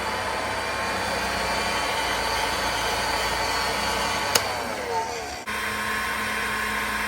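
Electric hot air gun running steadily, blowing hot air onto freezer ice to melt it, with a steady motor whine. A sharp click about four and a half seconds in, and a brief break about a second later before it carries on.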